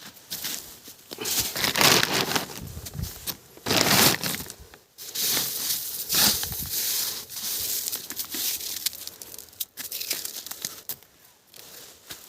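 Hailstorm: a rushing, irregular noise of hail and wind that swells and fades in surges of a second or two.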